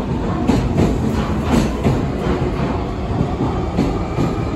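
Nankai electric commuter train running past along a station platform, its wheels clattering over the rail joints in an irregular run of clicks. The sound eases a little toward the end as the last cars go by.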